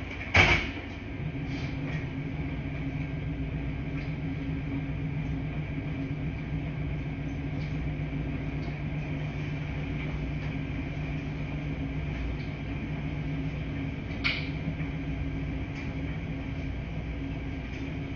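Laundry-room ambience of washing machines running with a steady low hum. A sharp clunk comes about half a second in, and a lighter click about fourteen seconds in.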